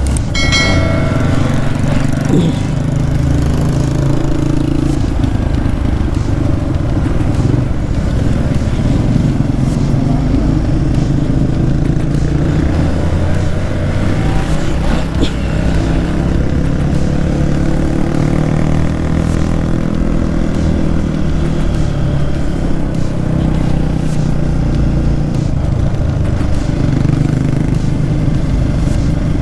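Motorcycle engine running under way on the road, its pitch shifting up and down as the throttle changes.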